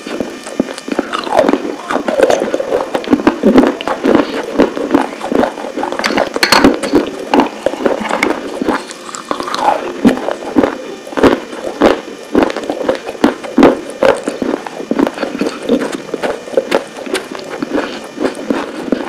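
Close-miked chewing of hard, crunchy eating-clay pieces: a dense, uneven run of sharp crunches and cracks, several a second.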